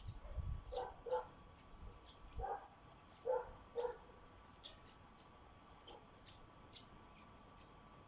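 Sparrows chirping at a bird feeder: many short, high, falling chirps scattered throughout. Five lower, clipped calls sound in the first four seconds or so.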